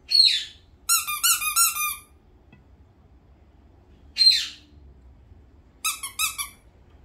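Pet talking bird calling: a sharp falling whistle, then a quick run of chirps lasting about a second, the same pattern repeated about four seconds later.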